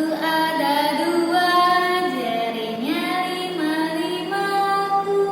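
A song: a high singing voice holding long notes and sliding between them.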